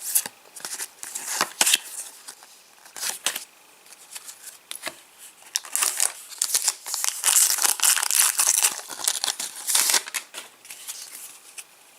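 A Match Attax trading-card packet being torn open, its wrapper crinkling in a run of irregular crackles that grow busier in the second half.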